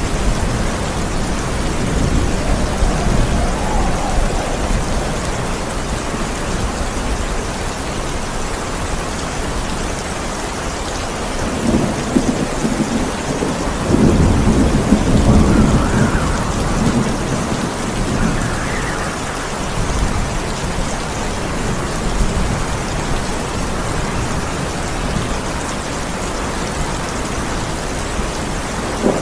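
Rain falling steadily with thunder rumbling, and a louder roll of thunder around the middle.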